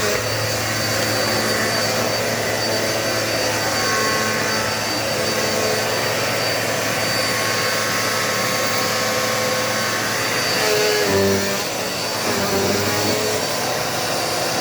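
Dirt Devil multi-surface vacuum cleaner running steadily while vacuuming a floor, its sound shifting briefly about eleven seconds in.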